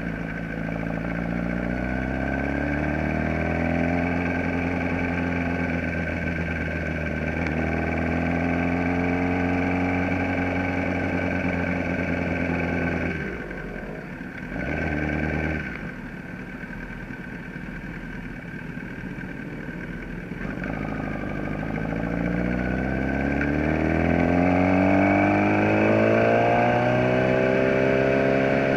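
Kawasaki ZX-10R inline-four engine heard on board, pulling with a steady note, then the throttle closes about halfway through with one short blip. It runs quieter for several seconds, then accelerates again with the pitch rising steadily near the end.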